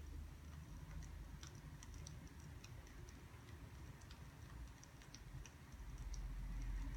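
Faint, irregular small ticks and clicks, a few a second, over a low steady rumble.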